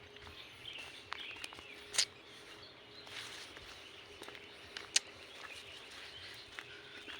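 Quiet forest trail ambience: scattered footsteps and crackles on the forest floor, with sharp snaps about two and five seconds in. Faint bird calls sit in the background.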